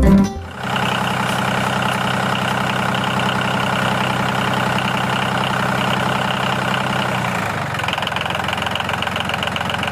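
Tractor engine idling steadily with a fast, even knocking pulse, its tone shifting slightly about seven seconds in.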